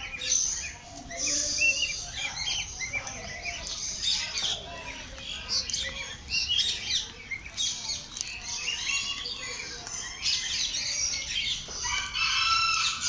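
Many birds chirping and calling at once in a dense chorus of short high notes, with a louder, harsher squawk near the end.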